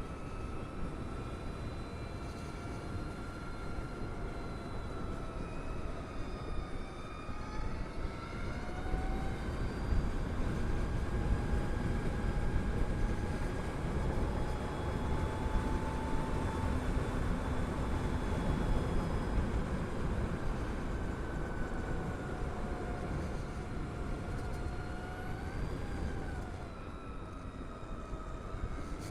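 Harley-Davidson LiveWire electric motorcycle on the move: a thin motor whine that rises and falls with speed over heavy wind rush and road rumble.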